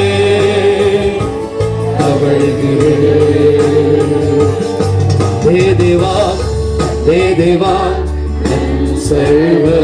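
Worship music: a sustained keyboard chord over steady bass, with a male voice singing the start of a Kannada praise song from about halfway through.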